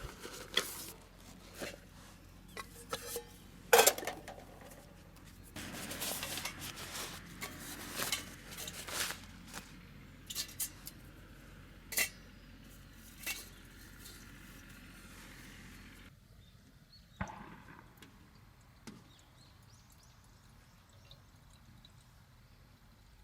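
Metal cooking gear clinking and knocking as a pot and utensils are handled for a campfire hot pot, with a steady hiss under the clinks through the middle, which stops about two-thirds of the way in, leaving only a few faint knocks.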